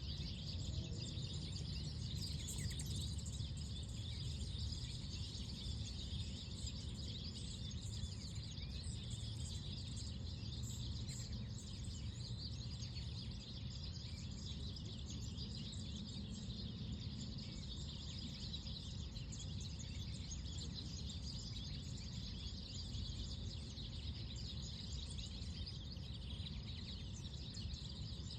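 Many small birds chirping continuously over a steady low background rumble, a morning birdsong ambience.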